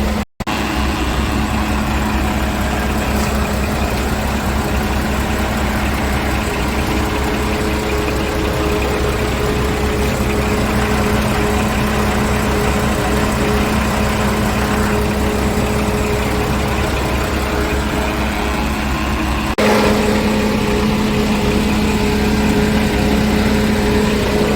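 Scania R truck tractor's diesel engine idling steadily, with a very short gap just after the start.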